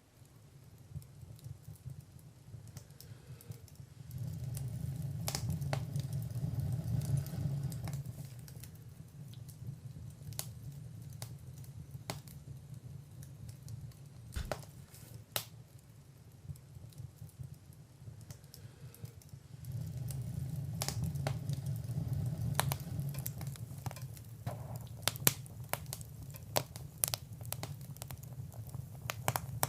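Fire in a fireplace crackling: scattered sharp pops and snaps over a low, steady rumble of flame that swells twice.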